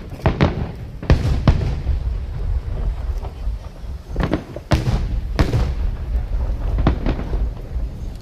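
Aerial fireworks shells bursting in an irregular string of booms and cracks, about eight in all, over a continuous low rumble of the display.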